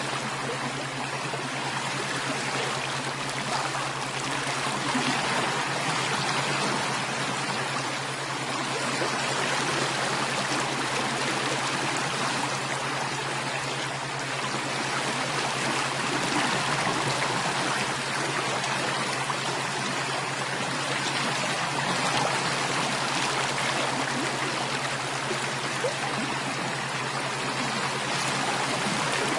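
Running water flowing steadily, an unbroken rushing and trickling.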